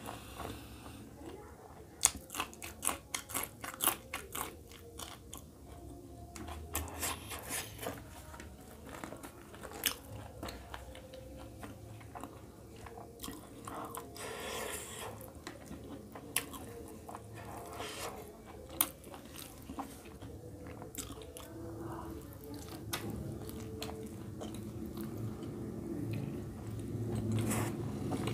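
Close-up mouth sounds of a person eating by hand: biting and chewing green chili and roti with egg curry. There are dense, crisp crunches for several seconds about two seconds in, then softer, wetter chewing with scattered clicks.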